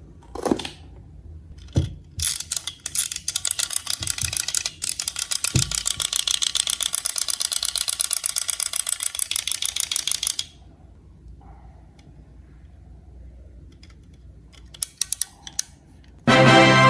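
A rapid run of ratchet-like clicks, about six a second, lasting roughly eight seconds and then stopping abruptly, with a few scattered single clicks before and after.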